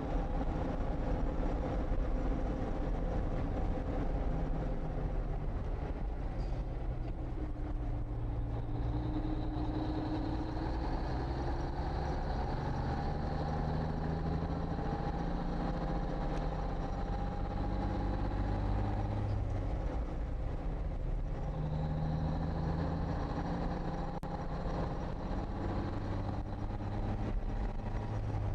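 Naturally aspirated Cummins 220 diesel in a 1954 Kenworth tractor running steadily as the truck drives. The engine pitch shifts a couple of times, and a faint high whine comes and goes.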